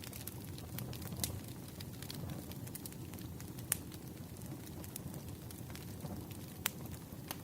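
Wood fire crackling: a steady low rumble of burning logs with sharp pops scattered through, the loudest about halfway and near the end.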